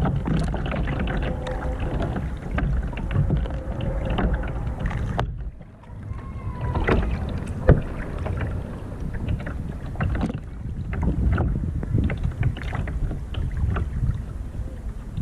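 Kayak paddling: paddle blades splashing and dripping water, over wind rumbling on the microphone. A single sharp knock a little before halfway through.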